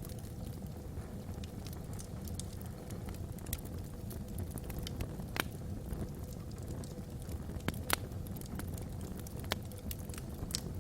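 Wood fire burning in a fireplace: a steady low rumble of flame with scattered sharp crackles and pops from the logs, two louder pops a little past the middle.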